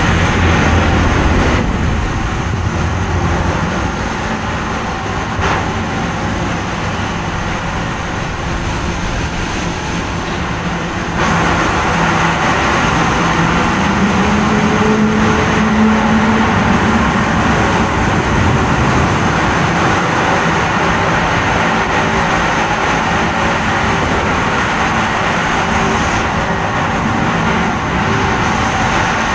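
Steady heavy machinery noise, a low drone with a constant hum, which grows suddenly louder about eleven seconds in; a brief rising whine comes a few seconds later.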